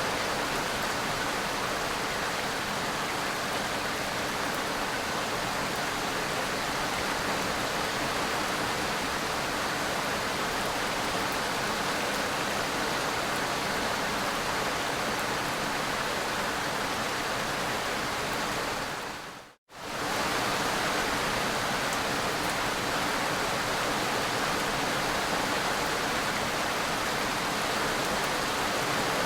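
Steady, dense rain, an even hiss without separate drops standing out. A little past the middle it dips briefly to silence and comes straight back, as at a splice in the recording.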